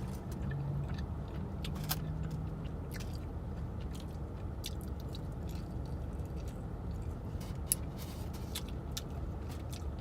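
Close-mic'd chewing and biting on saucy fried chicken wings, with many short wet mouth clicks scattered throughout, over a steady low hum.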